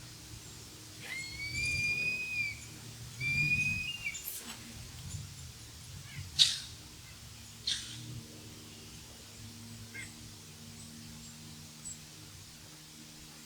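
Two long whistled bird calls, the first held for over a second and slightly rising, the second shorter. These are followed by a few sharp clicks, the loudest about six seconds in.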